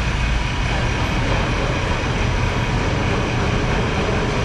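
Steady city street traffic noise: a continuous rush of passing vehicles with a low engine rumble underneath.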